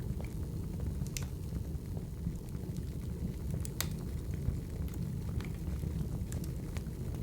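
Wood fire burning: a low steady rumble with scattered sharp crackles and pops from the burning logs, the loudest pop about four seconds in.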